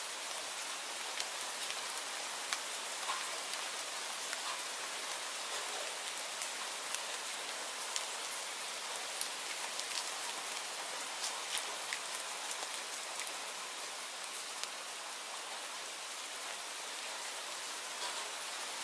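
Steady rainfall, an even hiss, with scattered sharp ticks of single drops landing close by.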